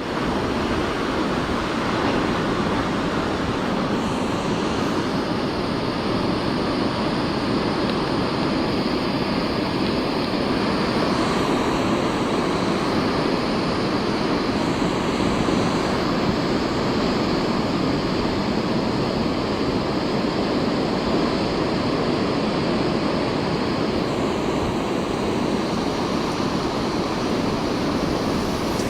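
Ocean surf breaking on a beach in the leftover swell of a typhoon: a steady, unbroken rush of waves.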